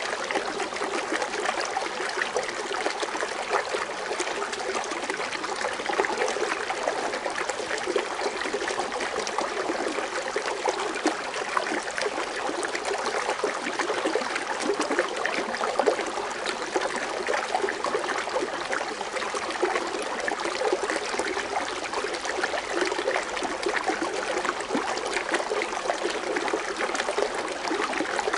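Foaming water fountain splashing and trickling steadily, a dense patter of small splashes.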